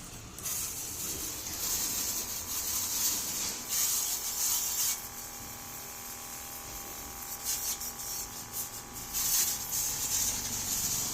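Small 12V electric pressure-washer pump running with a steady whine while its water jet sprays with a hiss that swells and eases several times.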